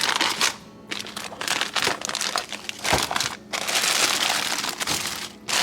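Plastic food packaging crinkling and rustling as it is handled, in irregular bursts that are densest in the second half.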